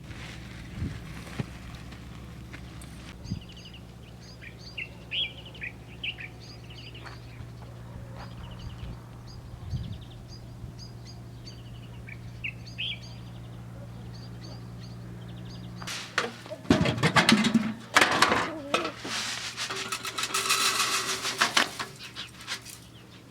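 A small bird chirping a short high phrase again and again over a steady low hum. About two-thirds of the way in, loud bursts of scraping and knocking take over.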